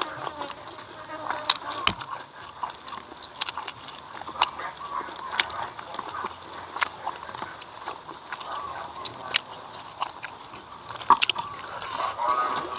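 Close-up mouth sounds of a person eating rice and smoked catfish by hand: chewing with wet lip-smacks and sharp clicks, about one every second or so.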